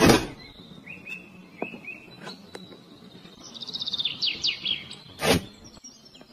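Songbird singing a phrase of quick high notes that slide downward, repeated about every four seconds, with softer chirps between. A loud sharp click comes at the start and another about five seconds in.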